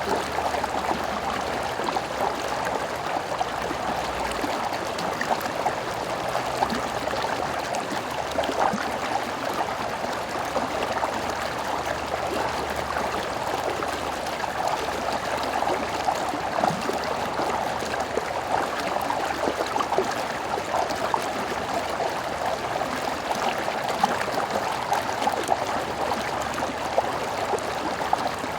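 Stream water flowing and gurgling over rocks, a steady babble with small splashes.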